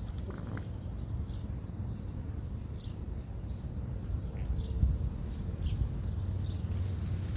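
Birds chirping with a few short, thin calls over a steady low outdoor rumble.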